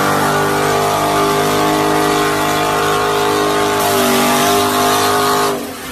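A muscle car's engine is held at high revs with a nearly steady pitch that shifts slightly partway through. It stops abruptly near the end.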